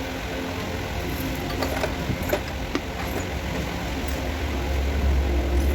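A motor vehicle engine running with a steady low rumble that grows louder near the end, with a few light clicks over it.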